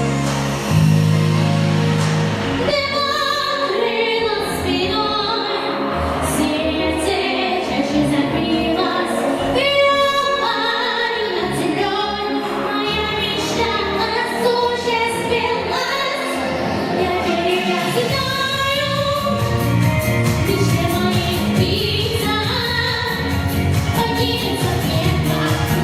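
A woman singing a pop song in Russian over a backing track with a steady beat.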